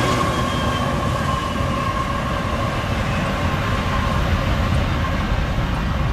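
The rear distributed-power diesel locomotive of a Union Pacific freight train passing and moving away, with a steady low rumble of engine and wheels. A high whine sags slightly in pitch and fades out about four seconds in as the locomotive recedes.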